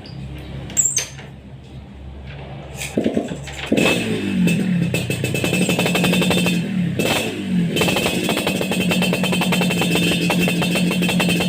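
Motorcycle engine running through a racing exhaust. It comes up loud about four seconds in and runs steadily, with a few brief dips and rises in revs.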